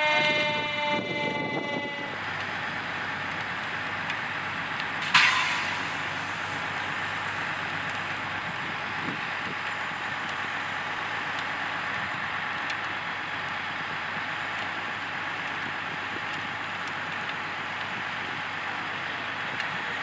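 A burning pickup truck's tire bursts with a single sharp bang about five seconds in, over a steady rushing noise. A horn, falling slightly in pitch, sounds at the start and fades out within the first two seconds.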